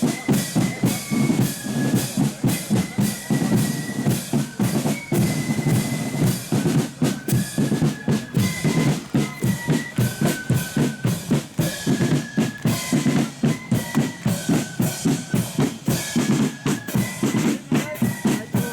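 Marching flute band playing: a flute melody over a steady bass drum beat and snare drums.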